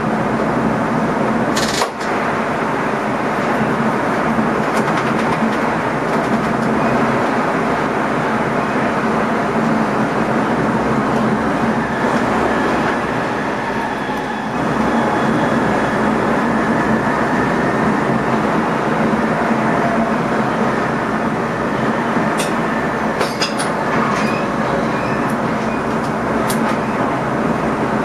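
NS ICM (Koploper) electric train running along the track, heard from inside the driver's cab as a steady rumble of wheels on rails. A few sharp clicks come about two seconds in and again near the end.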